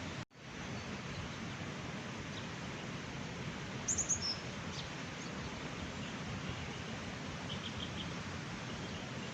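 A small bird chirping, with a quick run of high chirps about four seconds in and a few fainter chirps near the end, over a steady rushing background noise. The sound cuts out for an instant just after the start.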